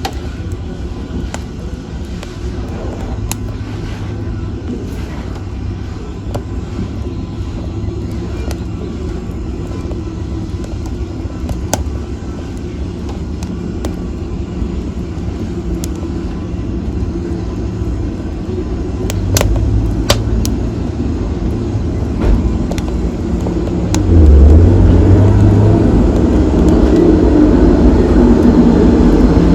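Fire burning in a fireplace: a steady low rumble with a few sharp crackles, swelling louder about three-quarters of the way through.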